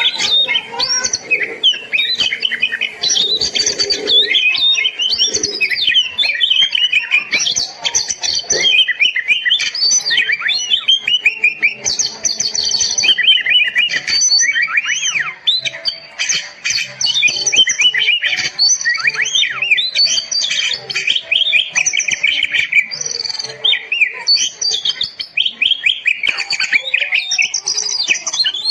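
Oriental magpie-robin singing without a break: a loud, fast, ever-changing run of whistles, chirps and short trills, the kind of song used as a training recording to get captive magpie-robins singing.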